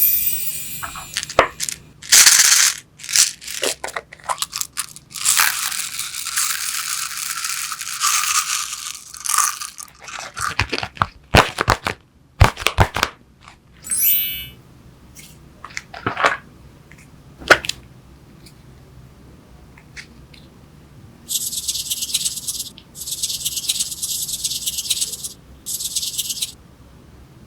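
Close-miked handling sounds of makeup products and slime: a string of sharp clicks, crinkles and squishy crackles, with a longer hissing stretch early on and three bursts of high hiss near the end.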